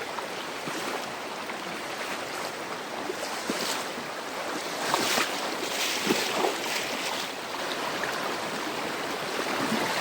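Rocky river rushing over stones: a steady hiss of flowing water.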